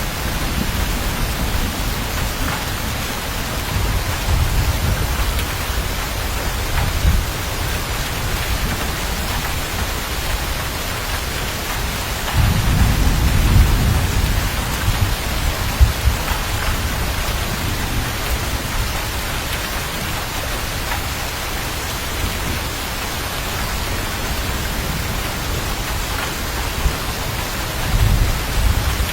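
Steady heavy rain with rolling thunder. The thunder rumbles several times, loudest in a long roll about twelve seconds in and again near the end.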